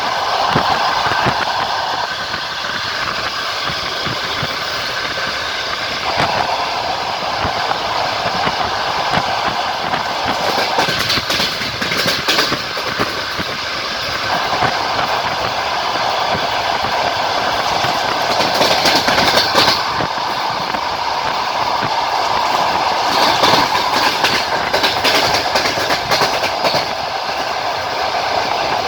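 Passenger train running at speed, heard from inside the carriage: steady rolling noise of the wheels on the rails with the clatter of rail joints, growing louder and hissier for a few seconds in the second half.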